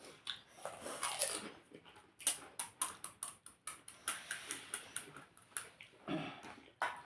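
Crisp puchka (pani puri) shells cracking and crunching in a quick, irregular run of sharp clicks.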